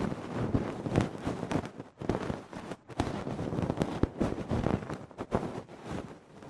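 Close-miked ear-cleaning ASMR sounds: an ear pick scraping and rubbing against the microphone, a dense crackle of sharp clicks and scratches with brief pauses about two and three seconds in.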